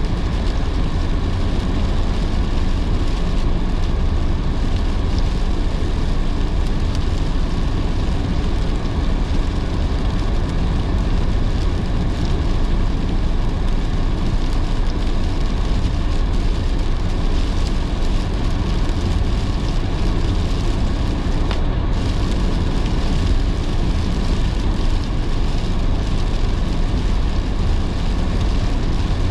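A car driving in heavy rain: a steady low road rumble with the hiss of rain and wet tyres.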